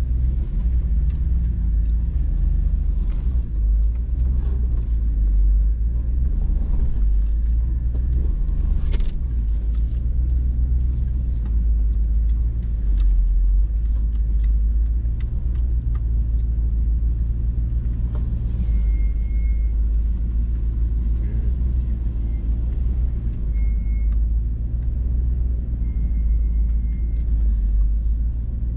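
Hummer H2's V8 engine running at low revs, heard inside the cabin as the truck crawls a slick trail, with scattered knocks and clatters from the truck working over the terrain.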